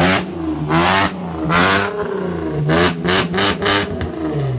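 Car engine revving up and down repeatedly through a straight-piped exhaust, with a quick run of about four short blips around three seconds in.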